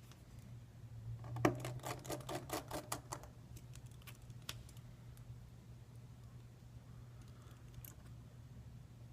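A quick run of small, sharp clicks and taps, the first the loudest, as a smartphone and its small parts are handled during reassembly, then a few single clicks later on, over a steady low electrical hum.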